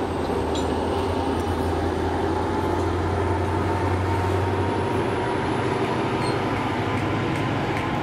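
NJ Transit Comet V cab car rolling past close by at the tail of a departing commuter train: a steady rumble of steel wheels on the rails with a low hum.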